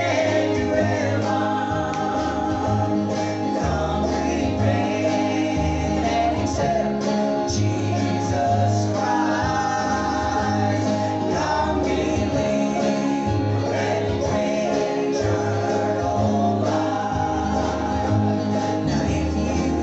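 Gospel group singing a song live in harmony, with guitar accompaniment over a steady bass line.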